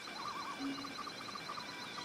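Forest bird chorus: several birds calling at once, a wavering warble and a fast run of short repeated notes, with a low hooting note about halfway through.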